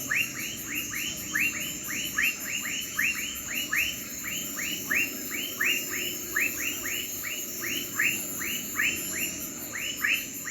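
Night insect chorus of crickets: a steady high trill under a rapid, regular series of short descending chirps, about four a second.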